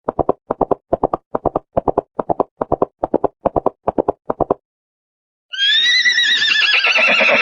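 Horse hooves clip-clopping in a steady rhythm for about four and a half seconds, then after a short pause a horse whinnying with a wavering pitch.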